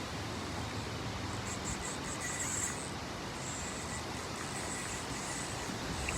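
Insects chirping in high, on-and-off patches over a steady rush of wind noise.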